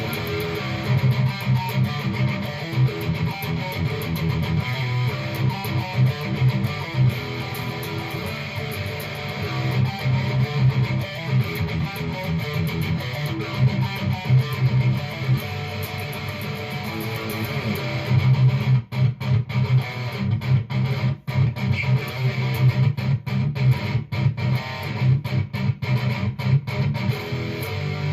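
Fender Stratocaster electric guitar played through an amplifier, strummed and sustained chords. About two-thirds of the way in the playing turns choppy, with brief silences cutting between strums.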